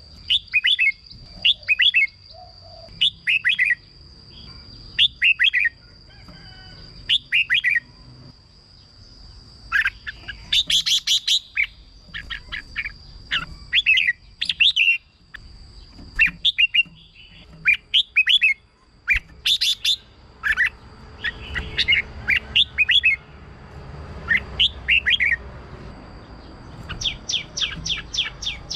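Red-whiskered bulbul singing short, bright warbled phrases, one every second or two, with a thin steady high tone running underneath.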